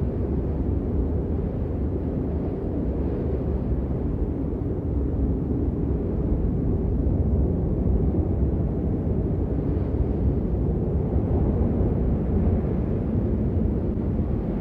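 Steady rain noise, deep and muffled, with little high hiss and no separate drops or thunder standing out.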